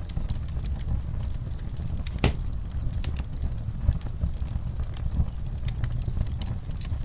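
Wood fire burning in a fireplace: a steady low rumble of the flames with scattered sharp crackles and pops, the loudest crack about two seconds in.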